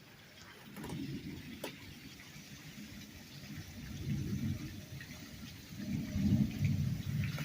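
Steady rain with a few sharp drop ticks, under low thunder rumbles that swell and fade, the loudest about six seconds in.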